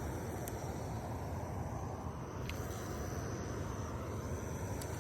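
Steady outdoor background noise, low and even, with a faint high steady insect tone over it and a few faint clicks.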